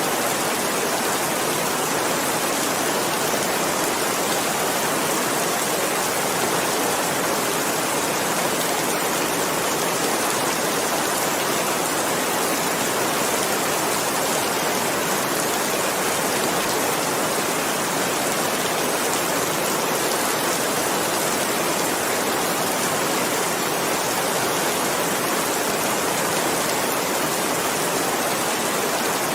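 Steady rain, a continuous even hiss of falling drops with no changes or distinct individual hits.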